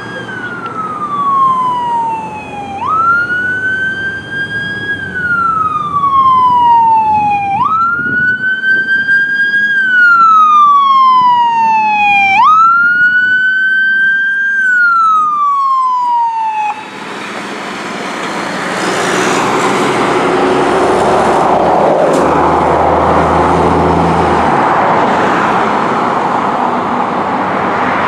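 Fire engine's siren wailing, each cycle jumping up quickly and sliding slowly back down, about every five seconds. After about 17 seconds the siren stops and the truck's engine and tyre noise rush past.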